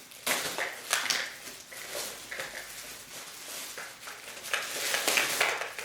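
Irregular plastic clicks, knocks and rustles as the parts of a Hoover SteamScrub steam mop are handled and pulled apart.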